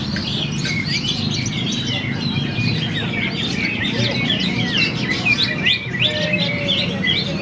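Many caged songbirds singing at once during a songbird contest round: a dense, continuous tangle of overlapping chirps and whistled phrases over a low steady background noise.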